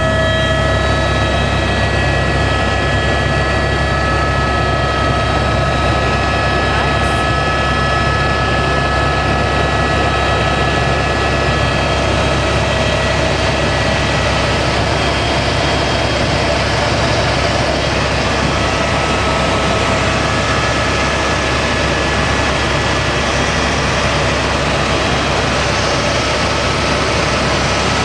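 Helicopter in flight: steady engine and rotor drone with a high, even whine over it.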